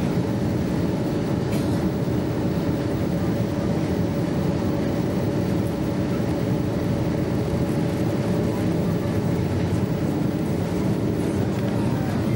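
Lockheed L-1011 TriStar's Rolls-Royce RB211 jet engines at high power, heard inside the passenger cabin during takeoff: a steady, unbroken rush of noise with a constant mid-pitched hum running through it.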